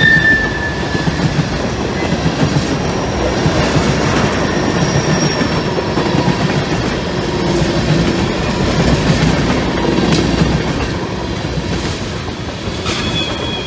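Freight train tank cars rolling past close by: a steady rumble with wheels clattering over the rails. A thin high wheel squeal sounds at the start and again near the end, and the sound begins to ease off as the last car goes by.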